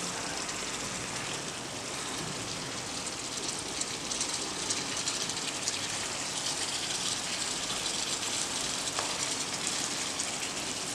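Masala gravy sizzling in a kadai as stuffed brinjals fry in it, with a spatula stirring and scraping through the pan from about four seconds in.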